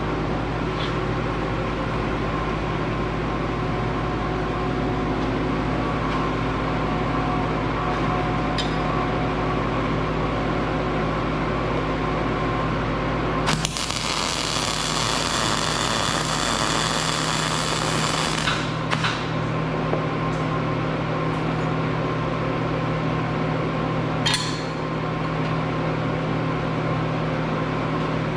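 Steady hum throughout, with a power tool working metal running loudly for about five seconds in the middle. There are a few brief ticks either side of it.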